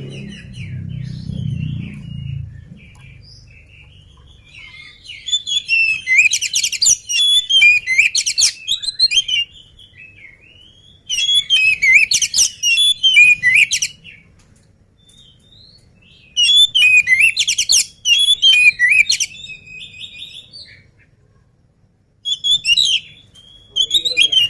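Oriental magpie-robin singing in loud bursts of rapid, varied whistled notes, four phrases with short pauses between them.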